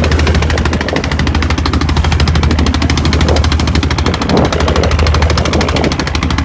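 Boat's diesel engine running steadily and loudly at speed, with a rapid, even knocking beat.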